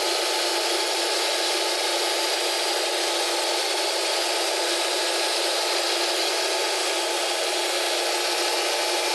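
Wood-Mizer band sawmill's carbide blade cutting steadily through a black locust log, an even, unbroken sawing noise.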